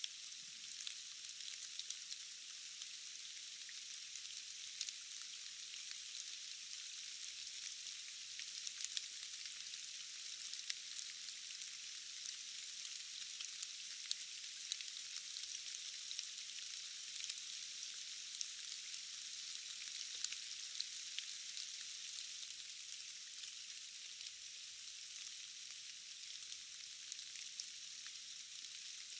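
Steady rain falling: a high, even hiss with scattered sharp drop ticks all through it.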